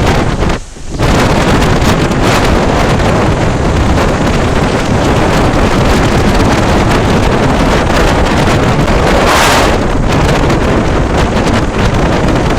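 Loud, steady wind buffeting the microphone on a motorcycle riding at speed in heavy rain, with rain and road-spray hiss mixed in. The noise drops briefly about half a second in and swells into a louder hiss about nine seconds in.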